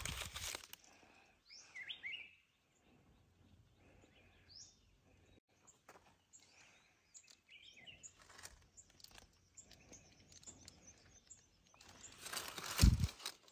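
Birds chirping now and then, short scattered calls over a faint outdoor background. Near the end a loud rustling thump.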